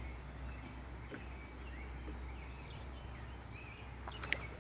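Faint bird chirps, a few short calls spread out, over a low steady rumble, with one sharp click about four seconds in.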